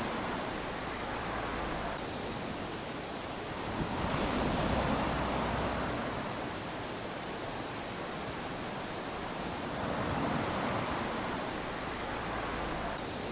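Small waves lapping onto a sandy beach: a steady wash of surf that swells and falls back, with two broader swells about four and ten seconds in.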